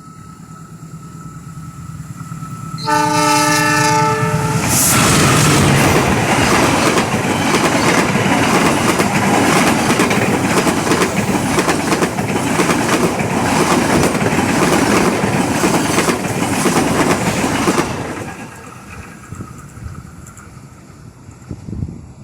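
A train approaches, sounds its horn once for about a second and a half, then passes close by with loud, continuous rolling noise for about thirteen seconds before fading away.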